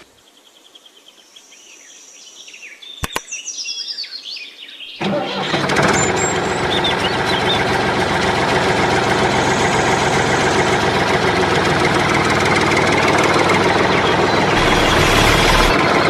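Birds chirping quietly, then about five seconds in a small engine starts abruptly and runs steadily, with a brief louder surge near the end.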